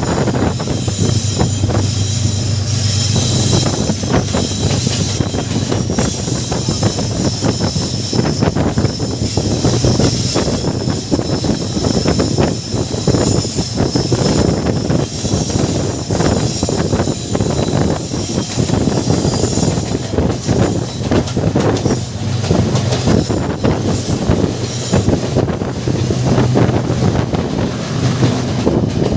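Passenger train running on the rails, wheels clattering rapidly over the track with a high-pitched wheel squeal over a steady low rumble.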